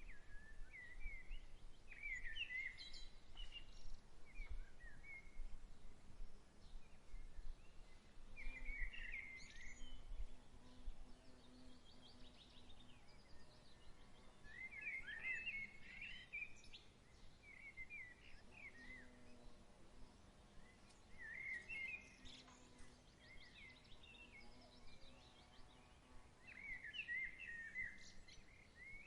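A songbird singing short, quick warbled phrases every five to seven seconds over a faint outdoor background. There is a low rumble during the first ten seconds or so.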